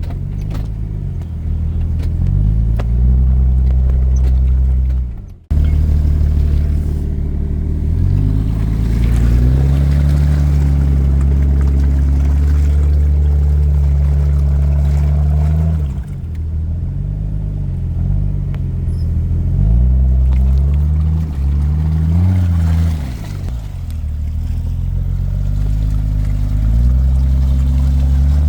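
Off-road SUV engine running under load, its revs rising and falling again and again. The sound breaks off abruptly about five seconds in, then the engine carries on.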